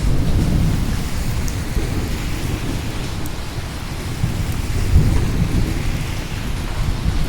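Steady rain with rolling thunder rumbling underneath, swelling near the start and again to its loudest about five seconds in.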